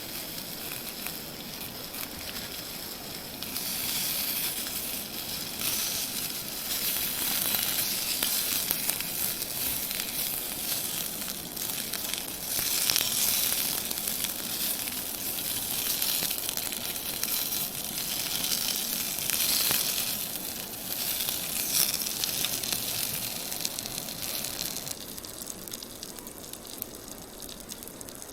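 Food sizzling and spitting in a hot frying pan. It grows louder a few seconds in and dies down near the end.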